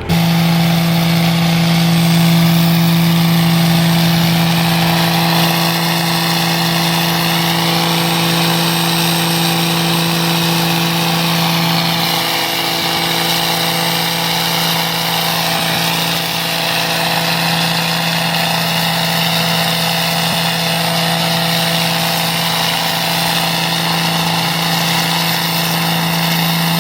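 A truck's engine running at a steady speed, with a constant low drone and a rushing noise above it.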